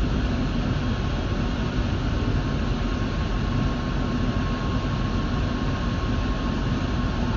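Metro subway train running steadily: a continuous rumble of wheels and motors with a faint steady whine over it.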